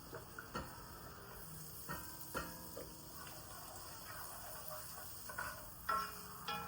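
Scattered light clinks and taps of kitchen utensils against cookware, each ringing briefly, over a faint steady background hiss; the loudest clink comes near the end.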